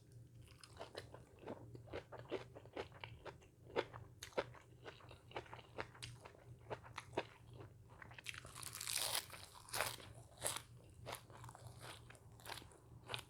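A person chewing crunchy food close to the microphone: a run of irregular crunches, thickest about eight to ten seconds in.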